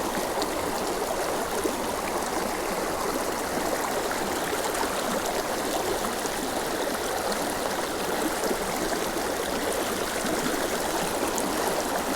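Shallow mountain creek running over rapids: a steady rush of water.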